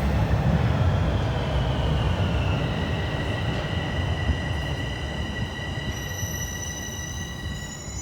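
Subway train running on the rails, its low rumble fading as it slows, with steady high-pitched whining tones coming in about two and a half seconds in as it decelerates.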